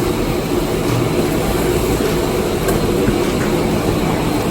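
Car wash vacuum running with a steady, loud rushing noise as the car's interior is vacuumed.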